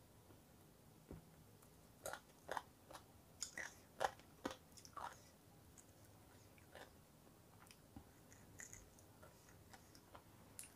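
A person eating close to the microphone: chewing, with a run of crisp crunches and bites between about two and five seconds in, then fainter chewing.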